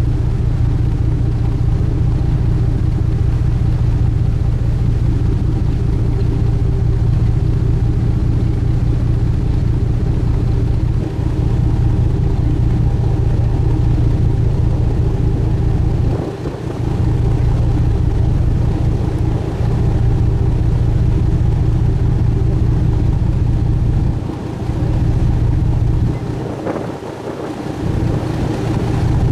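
Steady drone of a sightseeing cruise ship's engine running at cruising speed, a constant low hum with a few steady higher tones above it. The low rumble briefly drops away three times, about halfway through and twice near the end.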